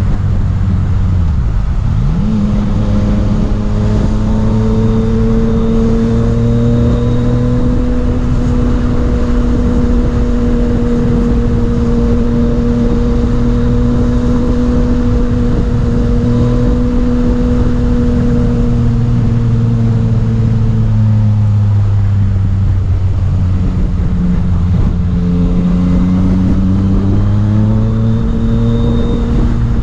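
Yamaha MT-09 inline-three motorcycle engine under way: it picks up revs about two seconds in, holds a steady pitch for a long stretch, eases off about two-thirds of the way through, then pulls up again near the end, with wind rushing over the microphone.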